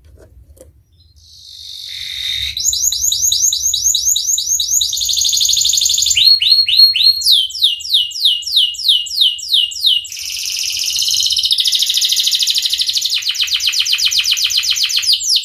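Domestic canary singing a long rolling song, starting about a second in. It is made of fast trains of repeated downward-sweeping notes that switch to a new note type every second or two.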